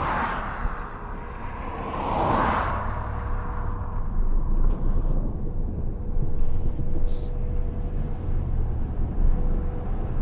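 Steady road and wind noise from a car on the move, with a rushing swell about two seconds in.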